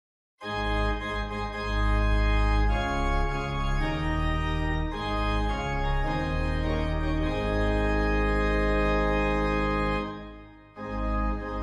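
Organ music: sustained chords with a deep bass, moving to a new chord every second or so, fading out about ten seconds in before a last chord.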